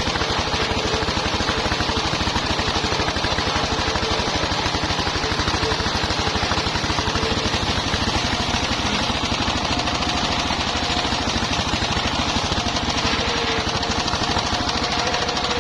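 Engine-driven circular sawmill running steadily: a rapid, even engine beat under a broad hiss from the spinning saw.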